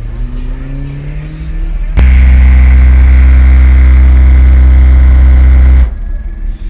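Car audio system playing a very loud, steady low bass tone for about four seconds, as in an SPL sound-pressure demonstration. The tone starts suddenly about two seconds in and cuts off abruptly, and a sound rising in pitch comes before it.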